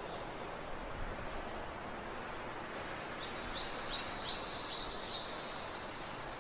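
Faint steady outdoor background noise, with a bird singing a quick run of high chirps for about two seconds in the middle.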